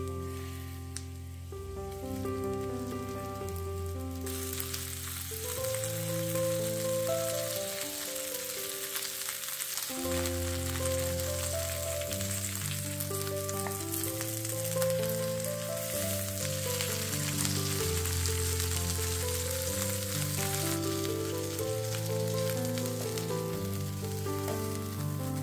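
Tortilla rolls frying in butter in a nonstick pan: a steady sizzle that gets much louder about four seconds in and eases near the end. Gentle background music with slow, sustained notes plays throughout.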